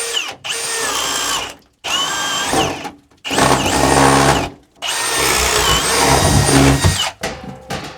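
Milwaukee power drill widening the hole that the PEX supply pipe passes through: four bursts of drilling, each spinning up and winding down, with short pauses between them.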